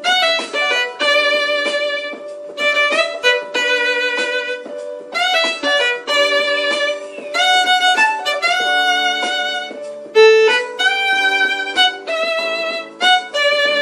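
Violin playing a melody: a run of separate bowed notes in short phrases, with brief breaks between them.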